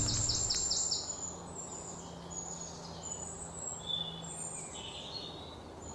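Birds calling: a quick run of about seven short, falling high notes in the first second, then scattered chirps and whistles.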